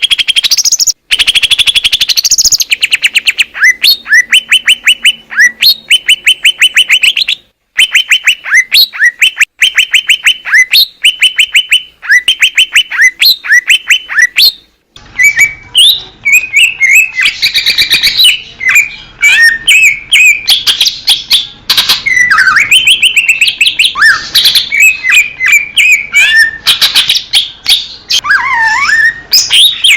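Cucak ijo (green leafbird) singing. For about the first fifteen seconds it repeats fast series of identical high chirps, cut off by abrupt short silences. Then, against a noisier background, it gives a varied warbling run of whistles that glide up and down.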